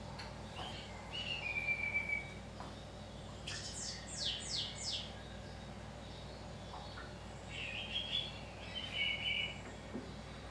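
Small birds chirping in separate phrases: a short held whistle, then a quick run of four falling notes, then a warbling trill near the end, over a faint steady hum.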